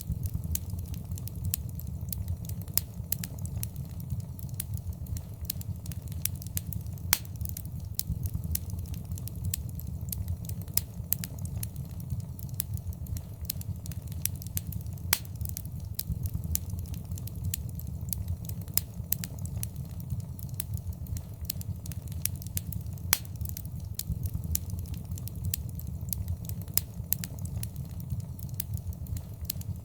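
Wood fire burning in a fireplace, with a steady low rumble of the flames and frequent irregular crackles and pops, a few noticeably louder than the rest.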